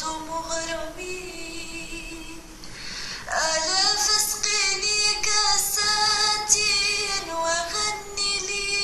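A female voice singing, holding long notes with a wavering vibrato; a new, louder phrase begins with an upward slide about three seconds in.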